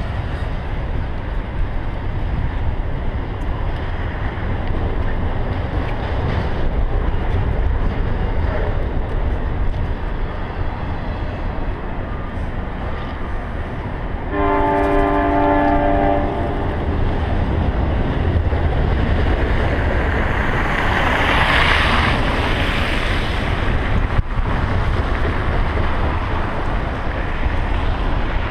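Double-stack intermodal freight train rolling past with a steady low rumble of wheels on rail. About halfway through, a multi-tone air horn sounds once for about a second and a half, and a few seconds later a louder rushing hiss rises and fades.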